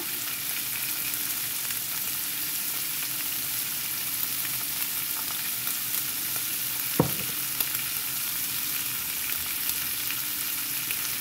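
Beef liver and potatoes frying in hot oil: a steady sizzle, with one sharp knock about seven seconds in.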